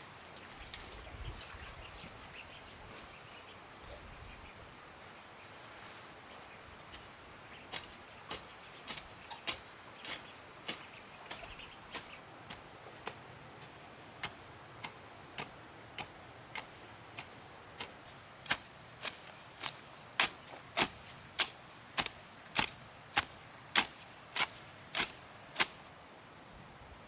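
Steady chirring of insects, with a run of sharp, evenly spaced knocks, about one and a half a second, starting about eight seconds in and growing louder toward the end.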